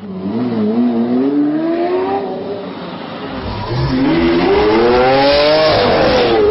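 Car engine accelerating hard, its pitch climbing through one gear, dropping at a shift, then climbing again through the next gear.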